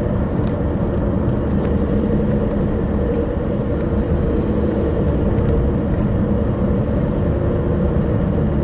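Car driving at road speed, heard from inside the cabin: a steady hum of engine and tyre noise.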